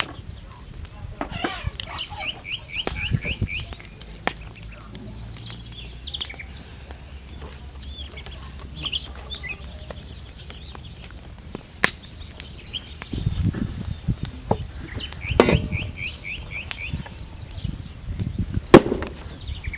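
Songbirds chirping outdoors, twice giving a quick run of rapid repeated chirps, over a steady high thin tone. A few sharp knocks are heard, the loudest one near the end.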